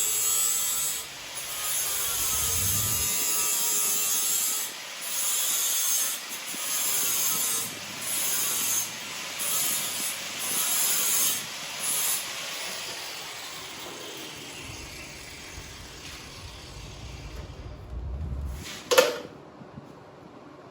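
A shop tool works metal in about eight short bursts of harsh, high-pitched scraping hiss, then fades away. A single sharp metallic clank comes near the end.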